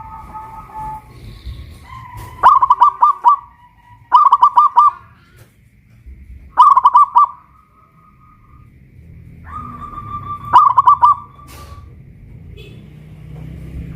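Zebra dove (perkutut) cooing: four loud phrases, each a held note running into a quick string of staccato coos.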